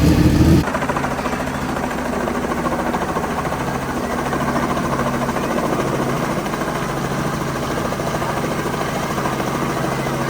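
Helicopter running steadily, a constant hum with a fast, even pulsing. A louder low engine rumble cuts off suddenly about half a second in.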